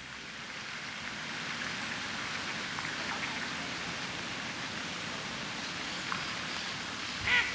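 Steady rushing, hissing sound of water, like rain or a stream. Near the end, a duck begins quacking.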